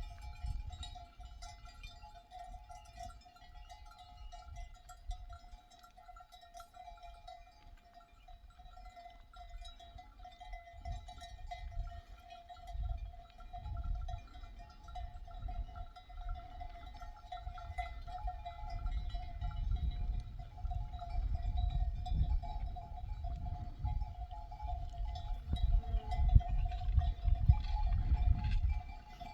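Bells on a grazing flock of sheep ringing and clinking without a break. A gusty low rumble of wind on the microphone grows stronger in the second half.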